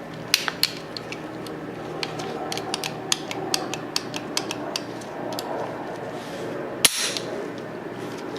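Small metal clicks and snaps from handling the reassembled Tokarev TT-33 pistol's parts. A few clicks, then a quick run of them, then one sharper, louder click near the end.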